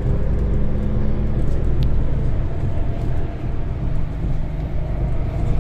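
Bus running along the Luton–Dunstable guided busway: a steady low rumble of engine and wheels with a faint steady whine.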